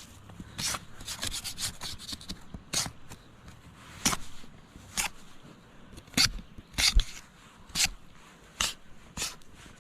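Knife blade scraping bark off a wooden roasting spit in short, irregular strokes, about one a second.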